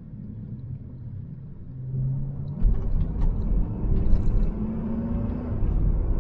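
Range Rover SVR's supercharged 5.0-litre V8 running through a full valved aftermarket exhaust with the valves closed, a near-stock, smooth note. It hums low at first, then runs louder from about two and a half seconds in.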